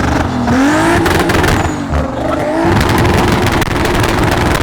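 A car's engine revving hard: it climbs in the first second, drops back, then climbs again and holds at high revs for about two seconds.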